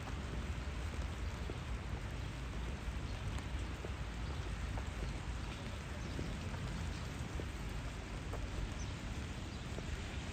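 Steady rain falling on a city street, with scattered drops ticking close by over a low, steady rumble.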